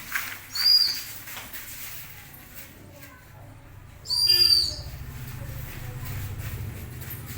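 A whistle blown twice in short, high-pitched blasts: a brief one under a second in and a longer, louder one about four seconds in. Faint shuffling and knocking of feet lie beneath.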